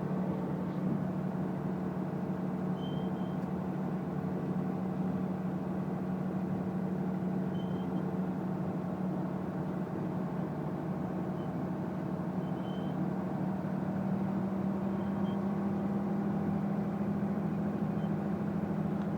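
An engine running steadily, a low even hum. Faint short high chirps sound every few seconds.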